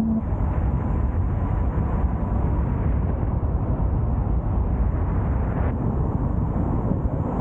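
Car driving along a road: steady low rumble of tyre and wind noise.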